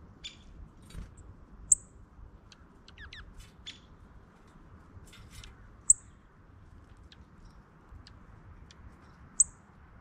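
Songbirds calling close by: three loud, sharp, very high chips about four seconds apart, with scattered fainter chirps and a quick falling call in between.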